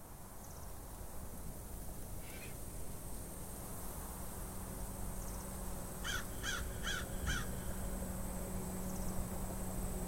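Outdoor ambience fading in, with a low steady hum underneath. About six seconds in, a bird gives four quick calls in a row, and a few fainter short calls come earlier and later.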